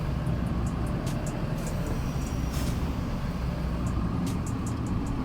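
Diesel engine of a UD tow truck running steadily, a low even rumble with a few faint clicks and rattles over it.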